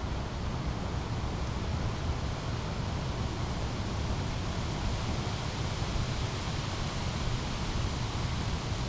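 Small brook's flowing water making a steady, even rush with a strong low rumble.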